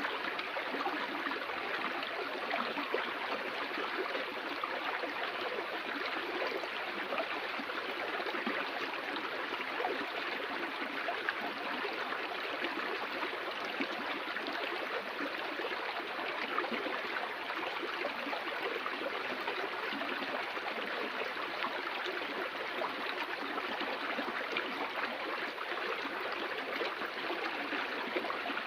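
Steady rushing and gurgling of flowing stream water, unchanging throughout.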